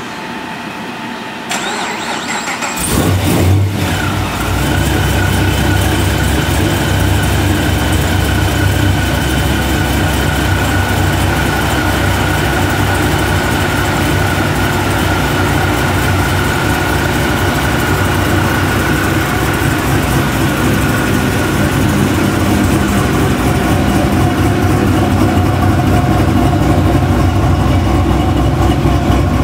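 Whipple-supercharged V8 of a 2010 Chevrolet Camaro cranking and starting about three seconds in, revving briefly, then settling into a steady idle.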